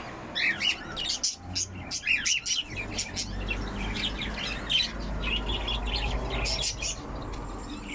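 Several caged canaries chirping and twittering in quick, high short calls.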